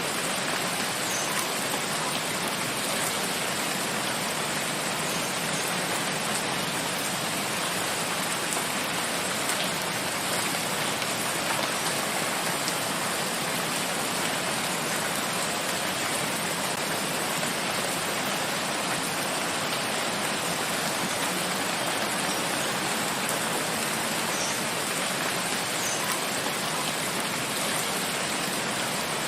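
Steady, even rain falling, a constant hiss with faint scattered drop ticks.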